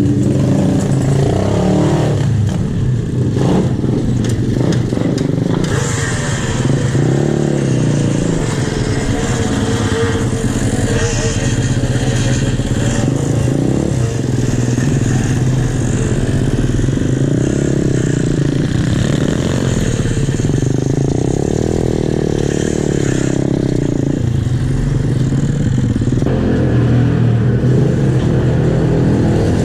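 Pit bike engine running while being ridden, its revs rising and falling again and again with the throttle.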